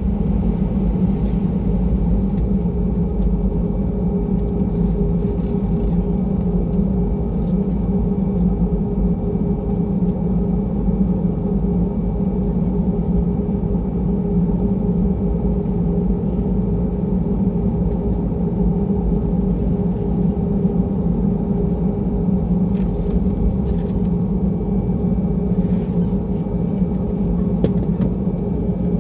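Airbus A320-200 running, heard as a steady low rumble with a constant hum and no change in level.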